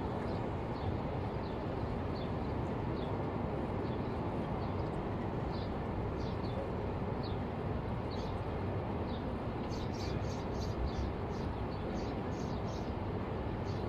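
Small birds chirping in short, sharp calls that come every second or so, then more thickly in quick clusters near the end. Behind them is a steady low rush of sandstorm wind.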